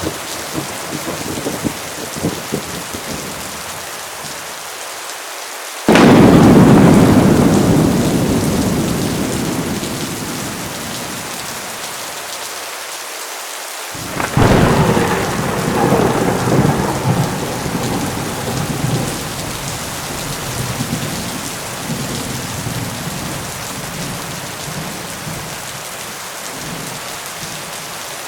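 Heavy rain falling steadily, with two thunderclaps: a loud sudden clap about six seconds in that rumbles away over several seconds, and a second sharp crack about fourteen seconds in that rolls on in uneven rumbles.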